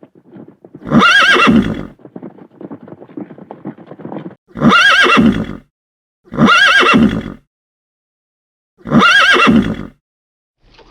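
A horse whinnying four times, each call about a second long with a wavering, quavering pitch. Faint clip-clop of hooves can be heard between the first two whinnies.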